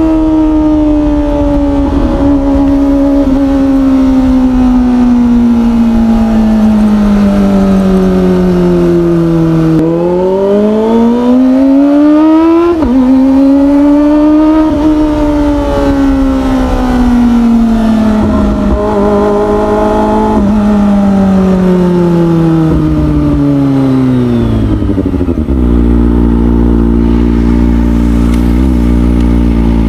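Kawasaki ZX25R 250 cc inline-four motorcycle engine through an Orion aftermarket exhaust, heard while riding. The engine note falls as the bike slows, then climbs again with a gear change around the middle, falls once more, and drops to a steady idle in the last few seconds.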